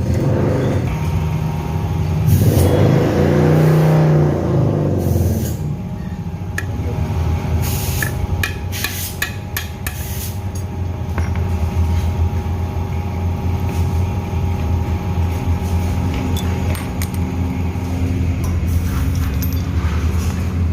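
A steady low hum of vehicle noise runs throughout. A louder vehicle sound swells about two seconds in and fades by about six seconds. Around eight to ten seconds in comes a run of sharp clicks and clinks from hand tools and metal parts being worked on the scooter's gearbox bearing.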